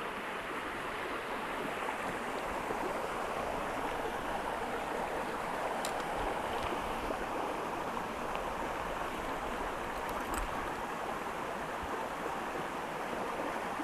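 Small creek running steadily, a continuous even rush of flowing water.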